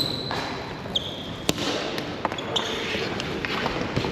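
Ball hockey play in a large hall: sneakers squeak briefly on the playing floor about a second in and again later, and a sharp clack of a stick hitting the ball comes about a second and a half in, over a steady background of players' voices.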